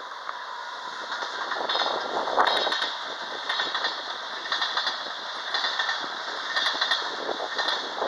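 Regional train hauled by an FS E464 electric locomotive rolling through the station, its wheels clattering over the track about once a second.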